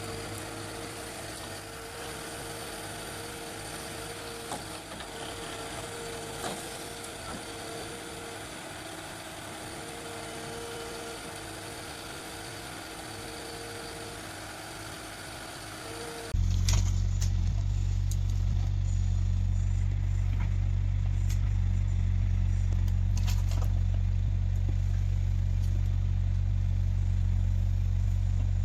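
Forestry machine diesel engines running. First a moderate engine sound with a whine that comes and goes. About 16 seconds in, a sudden cut to a louder, deep, steady engine drone.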